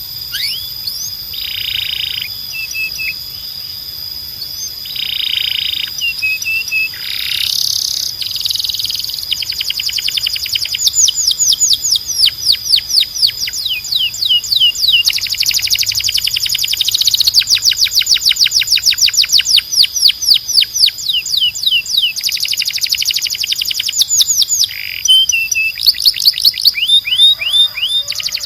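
Canary singing: a run of short buzzy notes, then long rapid trills of sharp falling notes strung together into rolls, growing louder in the second half.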